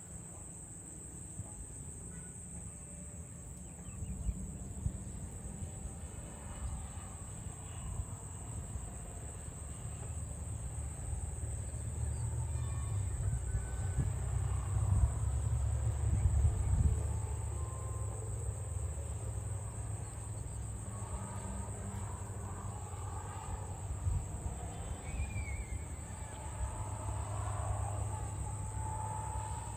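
Steady, high-pitched drone of insects, over a low rumble that swells in the middle and eases off again.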